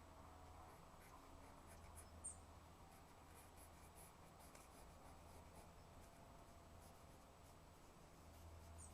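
Faint scratching of a drawing tool on the drawing surface, in short irregular strokes, over a low steady hum.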